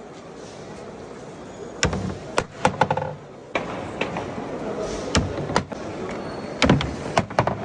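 Irregular sharp wooden knocks and clacks, some in quick clusters, a few with a brief ringing tone, over a steady background hubbub.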